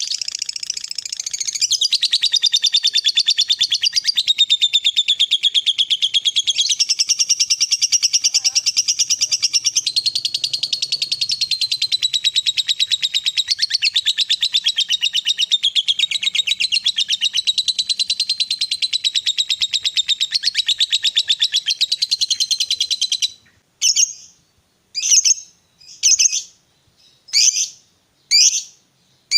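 Lovebird giving a long, very rapid high-pitched chattering trill, the long 'ngekek' of a fighter lovebird, which breaks off about 23 seconds in; after that it gives short separate calls about once a second.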